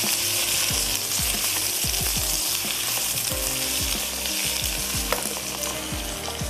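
Potato cubes and onions sizzling as they fry in oil in a nonstick wok. A wooden spatula stirs them, knocking against the pan two or three times a second. The sizzle eases a little near the end.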